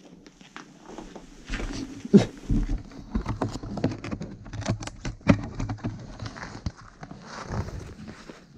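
Irregular knocks, clicks and thumps at an uneven pace, loudest about two seconds in and again about five seconds in.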